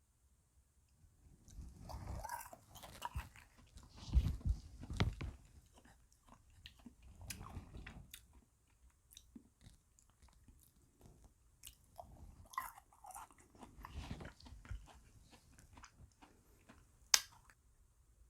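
Close-miked chewing and crunching of small frozen ice cream beads, coming in several bouts of bites and clicky crunches. A single sharp click stands out near the end.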